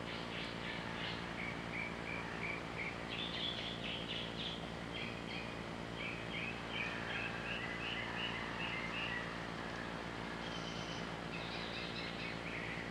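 Songbirds chirping in quick series of short notes, with brief pauses between runs, over a steady low hum and hiss.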